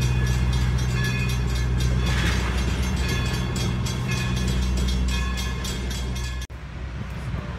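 Railroad passenger coaches rolling slowly past on the track: a steady low rumble with a quick, regular run of wheel clicks. About six and a half seconds in, the sound cuts off abruptly and a quieter outdoor background takes over.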